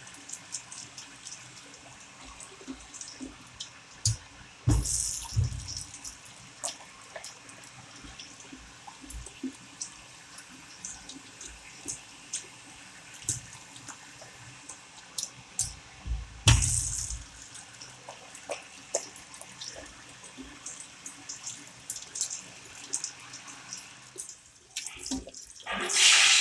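Water from a tap running into a wall-mounted sink, with scattered drips and splashes; two louder splashes come about five seconds in and about two-thirds of the way through. A loud rush of noise starts just before the end.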